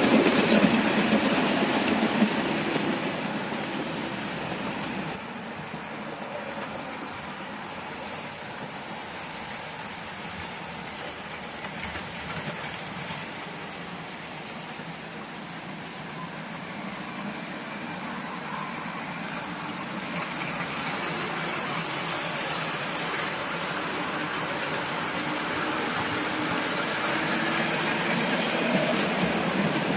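OO gauge model train running on the track, the wheels clicking over the rail joints. It is loud at first and fades over the first five seconds as it moves off, then grows steadily louder again towards the end as it comes back round.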